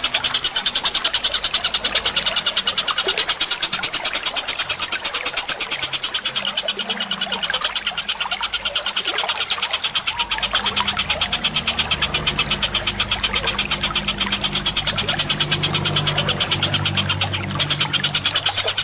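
Bird-tutor recording of fast, evenly repeated sharp bird calls: a mix of fighting Eurasian tree sparrow chatter and kingfisher and bulbul calls. The calls break off briefly near the end. A low rumble joins them about halfway through.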